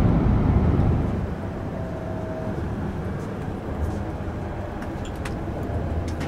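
Running noise of a Hayabusa shinkansen train heard from inside the car: a loud, low rumble for about the first second, then a quieter steady hum.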